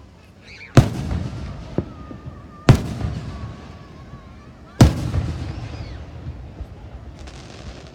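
Fireworks: three loud aerial shell bursts about two seconds apart, each trailing off in a rumble, with a smaller pop between the first two.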